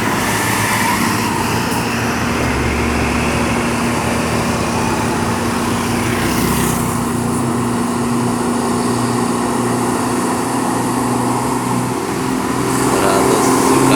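Heavy truck's diesel engine running steadily under load as it crawls up a steep hill in a low gear. The engine note grows louder near the end.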